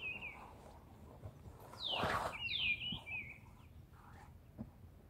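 Songbird chirping in short warbling phrases, once at the start and again about two and a half seconds in. A brief rustling whoosh comes just before the second phrase.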